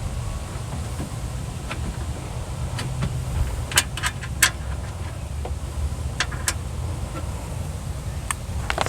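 Several sharp small clicks and clinks from handling a screwdriver, screws and door-latch parts: a cluster about four seconds in, two more a couple of seconds later and one near the end, over a steady low rumble.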